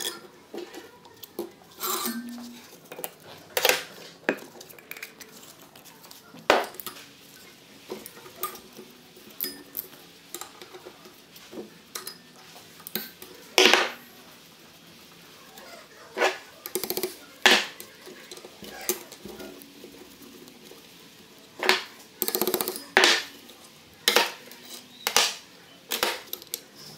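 Irregular metallic clinks, taps and knocks of hand tools and engine parts being handled as a BMW two-valve flat-twin engine is taken apart.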